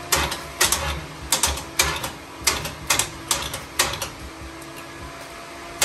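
Sharp metallic clicks and knocks, irregular, about two a second, over a steady hum. They pause for a moment near the end.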